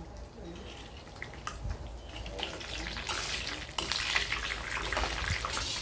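Pork skin pieces sizzling and popping in hot oil in a wok during the second fry for pork rinds (khaep mu), growing louder about three seconds in as a metal spatula stirs them.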